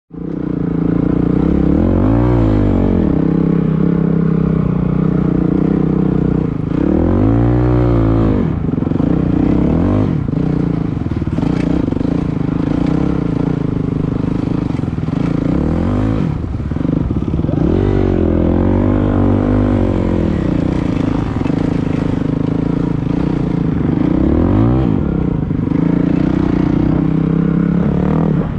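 Dirt bike engine running under way, its pitch repeatedly rising and falling as the throttle is opened and eased off.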